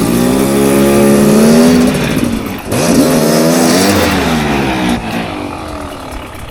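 Dirt bike engine revving hard under load on a hill climb. It drops off briefly nearly three seconds in, revs up again, then winds down and fades.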